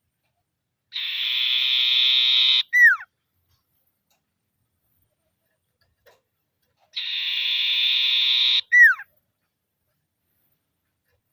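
Common iora (sirtu) calling twice, about six seconds apart: each call is a long, even, buzzy trill lasting under two seconds, ending in one short whistled note that drops steeply in pitch.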